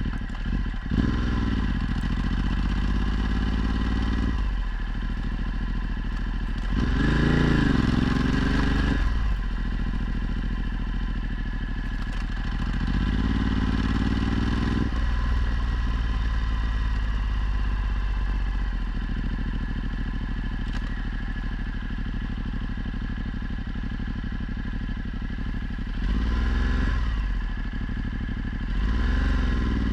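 Ducati Multistrada 1260's V-twin engine through a Termignoni exhaust, under way. The engine note climbs with the throttle several times, most strongly about seven seconds in and again near the end, and runs at a steady cruise in between.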